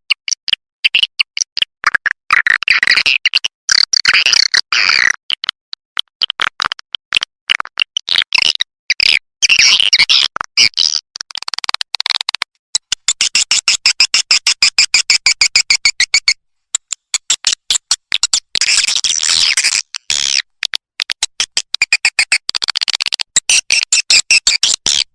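Swiftlet lure call recording: rapid twittering chirps of swiftlets in repeated phrases, with a fast, even run of clicks about halfway through. It is a call sound played to draw swiftlets in to roost and nest.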